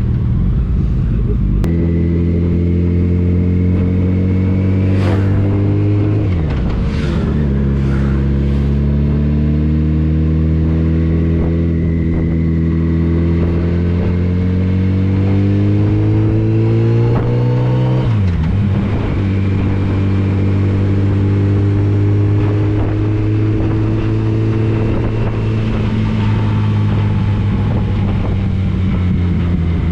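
Motorcycle engine accelerating through the gears: its pitch climbs, drops sharply at upshifts about six seconds and about eighteen seconds in, then holds fairly steady and eases slightly near the end.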